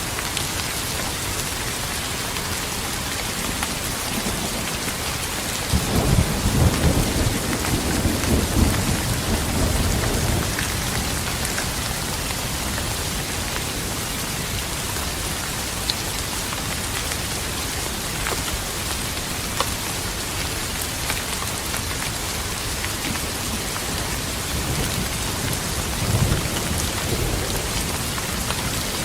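Steady rain pouring onto a surface, with a loud roll of thunder rumbling about six seconds in for some four seconds and a shorter, softer rumble near the end.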